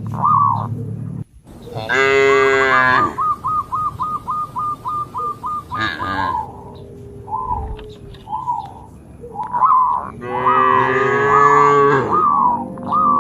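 Cattle mooing: several overlapping low moos, with two long loud calls about two seconds in and again near the end. A rapid run of short high chirps comes in between them.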